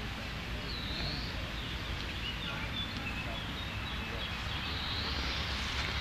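Outdoor ambience: steady background noise with a few short bird chirps, one about a second in and a few fainter ones a couple of seconds later.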